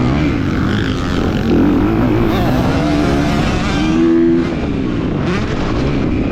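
250cc motocross bike engine racing, its pitch rising and falling with the throttle, held briefly at high revs about four seconds in.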